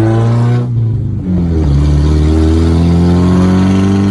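Truck engine accelerating: the revs climb, dip briefly about a second in, then climb steadily again.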